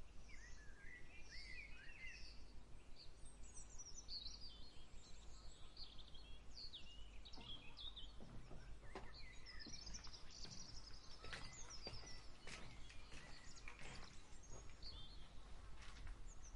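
Several small birds chirping and singing in quick, varied phrases. From about halfway, soft rustling footsteps join in.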